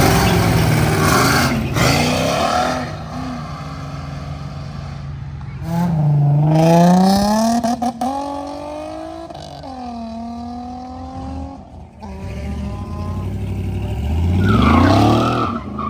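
Car engines accelerating hard away from a standstill, one after another, with engine pitch climbing and dropping back at gear changes. A fresh rev-up starts near the end.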